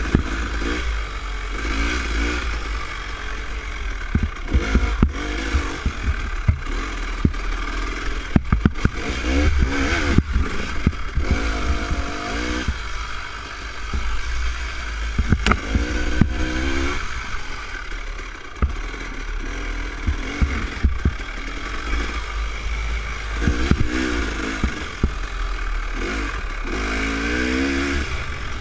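Dirt bike engine revving up and down as it is ridden slowly over a rough trail, with frequent knocks and rattles from the bike and a heavy low rumble of wind on the microphone.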